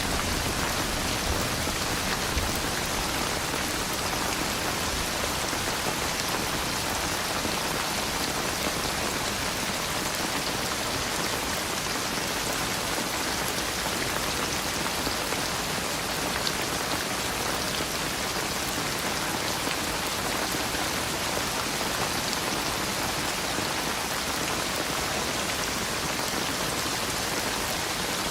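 Steady rain falling, an even hiss of drops on surfaces without breaks or thunder.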